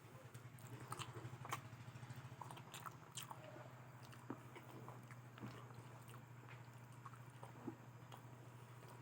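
A person eating fried potato close to the microphone: faint, irregular clicks and smacks of chewing and biting over a low steady hum.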